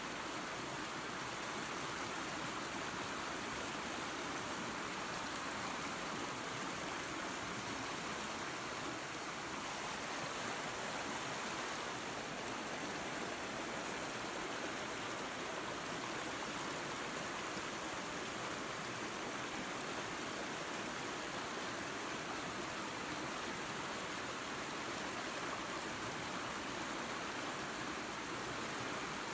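Creek and small waterfall running: a steady, even rush of water with no change.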